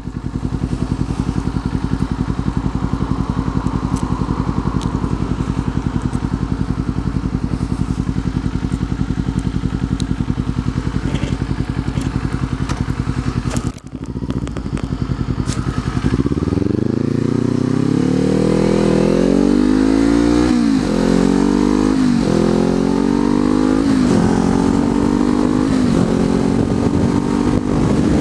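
Kawasaki Z400's parallel-twin engine with an Akrapovič exhaust idling steadily, then, a little over halfway through, pulling away and accelerating through several upshifts, the pitch rising and dropping back at each shift.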